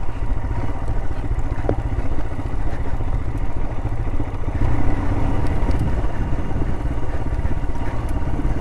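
Royal Enfield Himalayan motorcycle engine running at low revs and engine-braking down a steep descent, with the tyres rolling and slipping over loose rock and sand.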